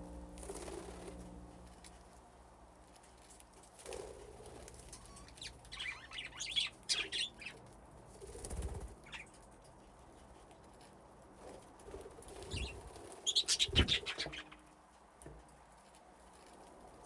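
Budgerigars chirping in short, high bursts and flapping their wings. The chirps come in two flurries, one about six seconds in and a louder one near the end.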